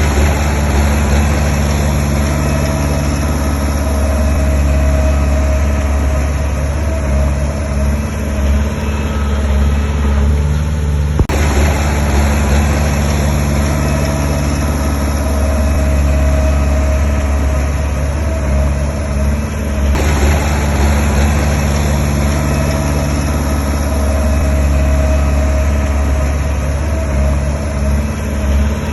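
Diesel engines of earthmoving machinery running steadily under work, a heavy low hum throughout, with the sound changing abruptly twice.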